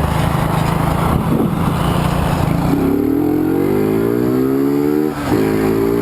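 Honda CG 125 Fan's single-cylinder engine running at low revs, then about three seconds in accelerating with a rising pitch. A quick gear change breaks the note just after five seconds, and it pulls on at a steadier pitch.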